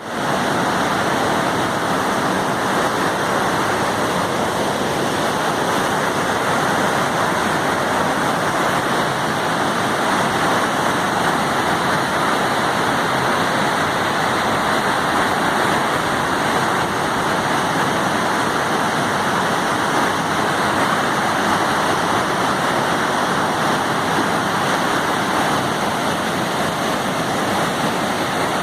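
Waterfall rushing steadily, a constant even noise of falling water with no breaks.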